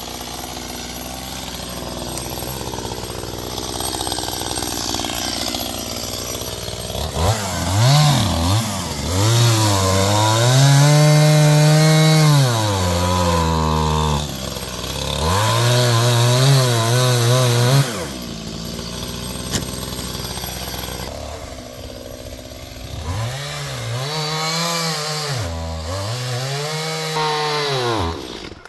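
Two-stroke Stihl chainsaw running, revving up and cutting, its pitch rising and sagging as it works through wood. It settles back twice, around the middle and again before the end.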